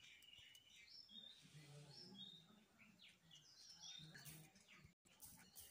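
Faint bird chirping: many short, high chirps in quick succession, over a faint low murmur.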